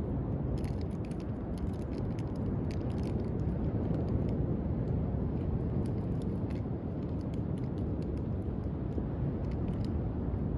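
Driftwood campfire crackling, with irregular sharp pops and snaps scattered through, over a steady low rumble.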